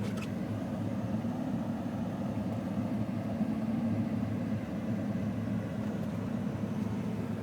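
Steady in-cab drone of a 2006 Ford F-150 pickup on the move: low engine hum and tyre and road noise, with no change in speed.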